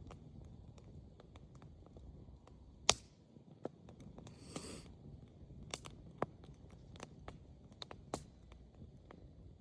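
Fire crackling, with irregular sharp pops and one loud snap about three seconds in, plus a brief hiss about halfway through.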